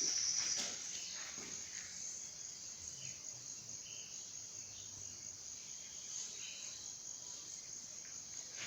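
Insects trilling in the background, a steady high-pitched buzz that is louder for the first half-second and then carries on fainter, with a few faint short chirps over it.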